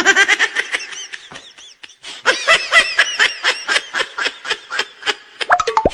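High-pitched giggling laughter in quick bursts, about six a second, fading briefly around two seconds in, then picking up again.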